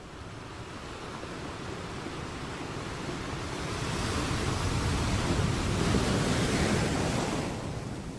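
Ocean surf: a wave builds over several seconds, breaks and washes in with a loud hiss about six seconds in, then draws back near the end.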